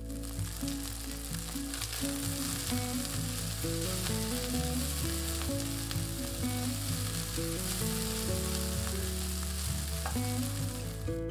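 Chicken breast strips sizzling as they fry in a nonstick pan, stirred and turned with a spatula. Soft background music plays underneath.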